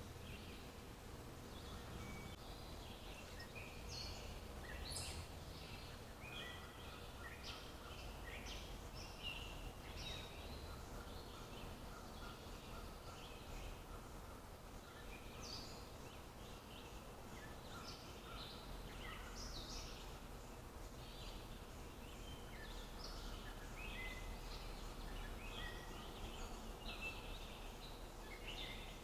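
Several small songbirds chirping and calling, many short high notes overlapping one another, over a faint steady low rumble.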